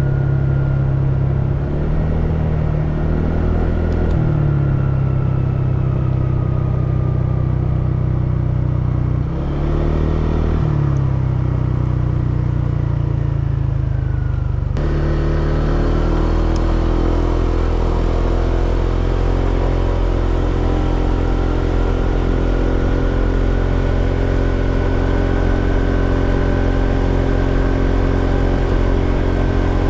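Honda PCX scooter's single-cylinder engine running under way, its pitch easing off and picking up a few times. About fifteen seconds in the sound changes abruptly, and the engine then runs steadily with its pitch slowly rising.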